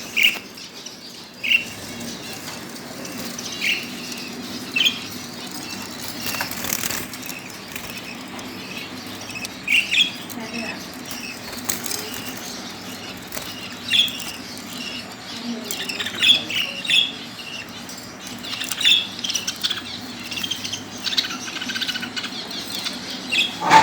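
Lovebirds chirping: short, sharp calls every few seconds, coming more often in the second half. A few bursts of wing flapping, over a steady low hum.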